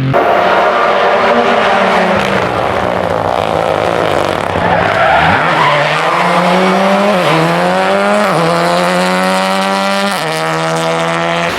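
Rally car engine, loud, first slowing with falling revs and tyre noise, then accelerating hard: the revs climb steeply and drop sharply three times as it shifts up through the gears.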